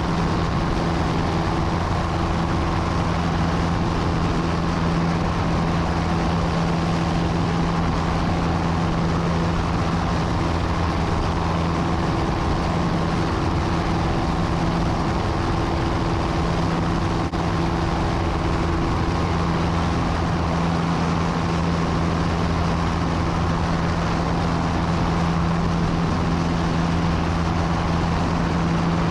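Small propeller airplane's piston engine and propeller in steady flight, heard from inside the cabin: a constant droning hum with a low steady tone.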